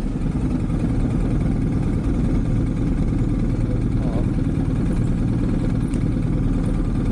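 Motorcycle engine running steadily under a dense low rumble of wind and road noise.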